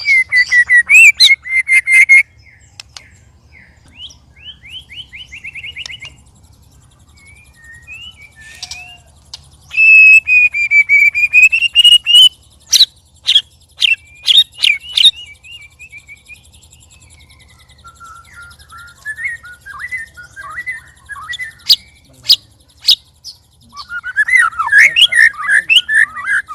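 White-rumped shamas singing: loud whistled phrases that glide down and up, a rapid ticking trill, sharp clicks, and a loud burst of chattering near the end.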